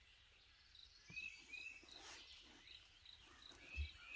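Faint rural morning ambience: a steady series of short, high chirps about two or three a second, with a few brief bird whistles. There is a low thump near the end.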